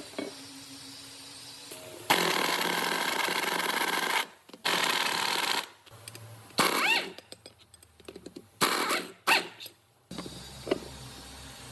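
A power tool run in several bursts of one to two seconds, each starting and stopping abruptly, one with a short rising whine as it spins up.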